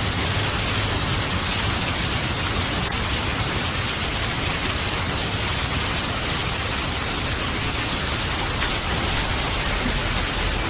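Steady, dense rainfall, an even hiss of drops on surfaces with no let-up, over a continuous low rumble.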